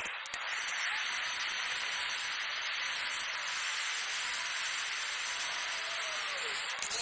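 Welding arc on aluminium, a steady hiss that holds evenly for about seven seconds.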